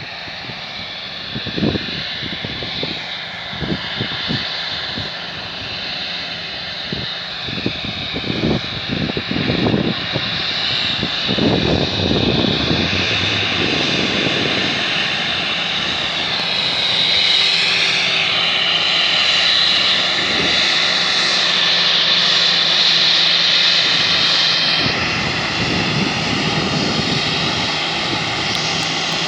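Airbus A321's twin jet engines whining, several high tones shifting in pitch over a steady rush, growing louder toward the middle and easing near the end. A gusty low rumble comes and goes in the first half.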